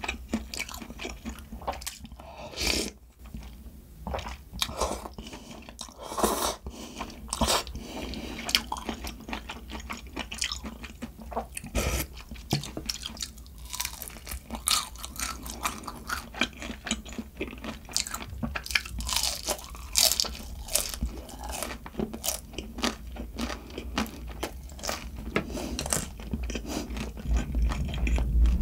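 A person biting and chewing crunchy food close to the microphone: many crisp crunches at an uneven pace.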